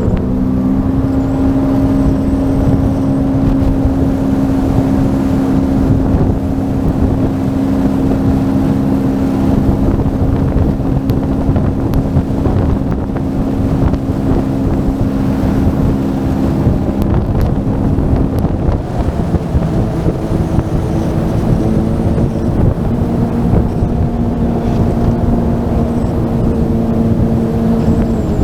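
Sea-Doo Fish Pro jet ski engine running at a steady cruising speed, with wind buffeting the microphone. The engine note dips slightly about two-thirds of the way through, then holds steady again.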